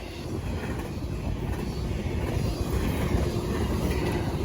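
A train passing on the tracks: a steady low rumble of wheels on rail that grows slowly louder.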